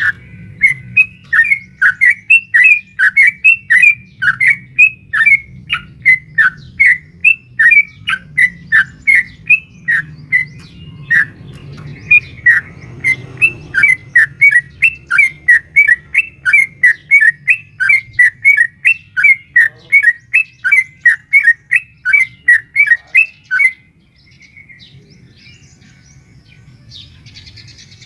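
Yellow-vented bulbul (trucukan) calling a long rapid series of short, loud, rising-and-falling notes, about two a second, which stop abruptly about 24 seconds in.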